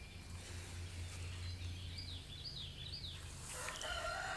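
A small bird gives four quick, high, falling chirps about two seconds in. Near the end a rooster starts a long crow, over a steady low outdoor hum.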